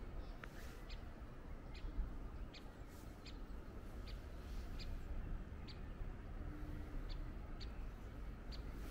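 A small bird chirping: short, high notes repeated every half second or so, over a steady low outdoor rumble.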